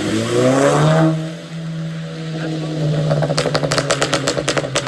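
Car engine with a crackle tune revving up, then holding a steady note, then firing a rapid string of sharp pops and crackles from the exhaust from about three seconds in. The tune deliberately makes the exhaust pop like gunshots.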